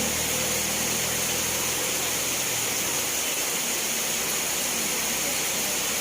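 Steady rain falling, an even hiss. A low engine hum runs under it and fades out about halfway through.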